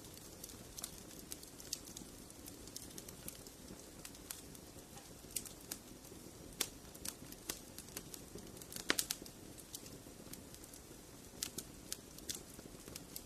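Wood fire crackling in a fireplace: a soft steady hiss with irregular sharp pops and snaps, a quick cluster of louder pops about nine seconds in.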